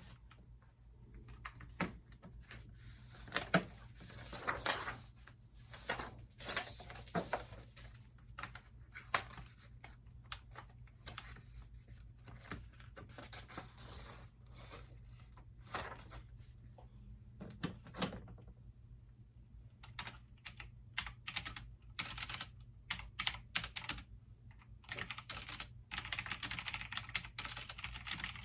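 Typing on a computer keyboard: irregular bursts of key clicks with short pauses, turning into a fast, continuous run near the end. A steady low hum sits underneath.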